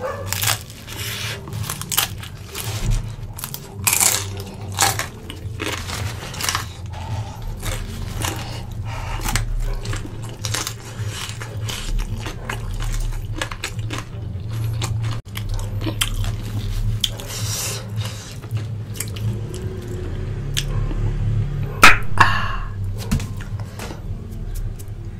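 Close-up chewing and biting of a fried vegetable spring roll: many short crisp crunches and mouth sounds, over a steady low hum. Two louder sharp knocks come near the end.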